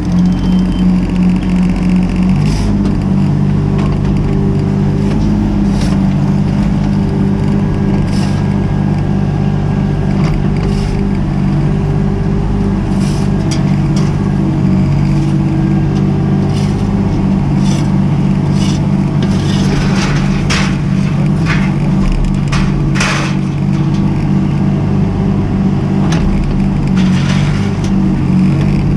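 Mini excavator's diesel engine running steadily under hydraulic load, its note shifting about two and a half seconds in. Scattered scrapes and knocks, most of them in a cluster past the middle, come from the bucket working ground and debris.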